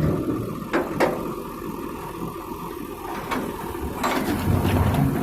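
Diesel engine of heavy farm or earth-moving machinery running steadily, with a few sharp knocks about a second in and again after three and four seconds.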